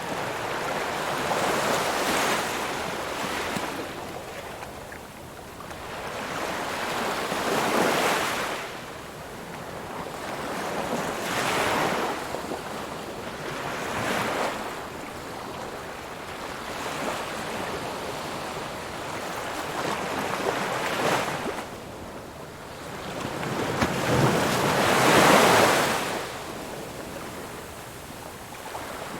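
Ocean waves breaking and washing up a beach, swelling and falling back every few seconds, with the largest surge near the end.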